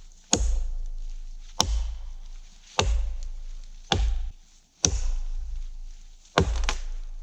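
Axe chopping a fresh windfallen birch trunk: six heavy strokes, a little over a second apart, each a sharp crack with a dull thud after it.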